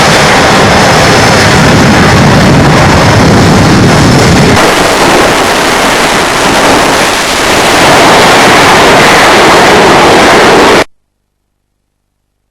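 Loud, overloaded jet noise from a military fighter jet's engines during a display pass, heavy low rumble at first and then a harsher, higher noise. The sound cuts off abruptly to silence near the end.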